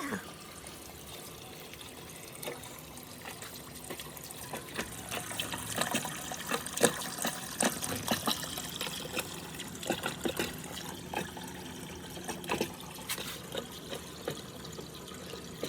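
Water trickling steadily down a handmade marble run, with glass marbles clicking and knocking along the track. The clicks come thickest through the middle of the stretch.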